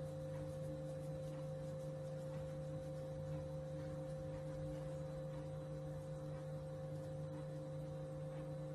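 A steady hum made of a few unchanging tones, which stays level throughout.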